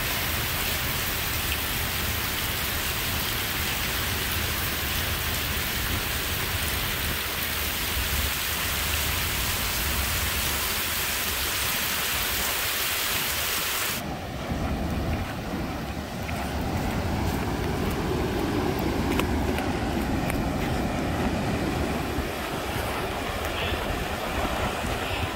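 Heavy rain from a hurricane rain band pouring down steadily as a dense hiss. About halfway through it cuts abruptly to rough surf breaking and washing up a beach, with wind.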